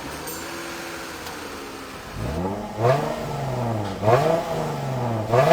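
12th-generation Toyota Crown's V6 engine idling steadily, then revved sharply four times from about two seconds in, each rev rising in pitch and falling back toward idle.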